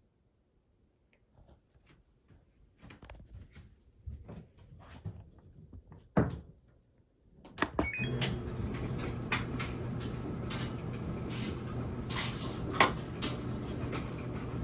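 Washing machine being handled: scattered clicks and knocks of its door and controls, with one loud click about six seconds in. Just before eight seconds a quick run of short beeps sounds, and a steady mechanical hum with regular ticks starts and keeps going.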